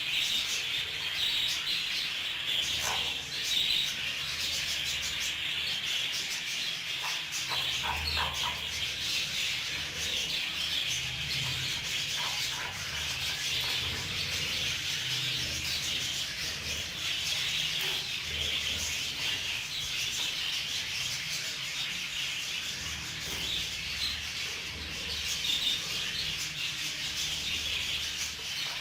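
Budgie seed rustling and rubbing as it is worked in front of an electric fan to winnow off the husks: a steady grainy hiss with fine ticks and a low rumble that comes and goes.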